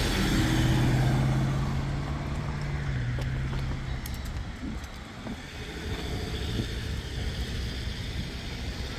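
A motor vehicle passing close by, its engine hum loudest about a second in and fading away after about four seconds, leaving steady distant traffic noise.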